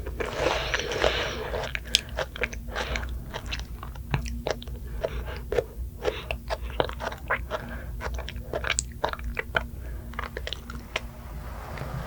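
Close-miked eating sounds: a person biting and chewing food, with many quick, crisp crunching clicks.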